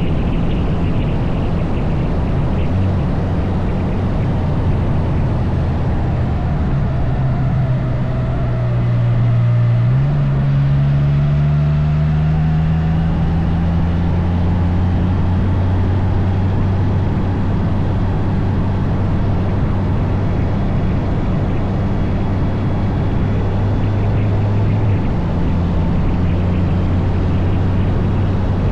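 Can-Am Spyder three-wheeled motorcycle's engine running at road speed over a steady rush of wind noise. About ten seconds in the engine note shifts and then climbs slowly for a few seconds before settling.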